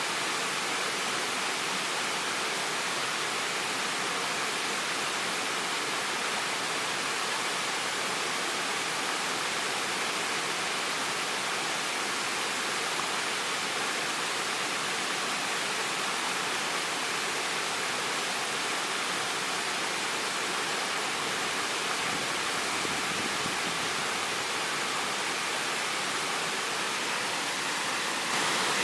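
Waterfall: a steady rush of falling water, an even hiss, with a small rise in level near the end.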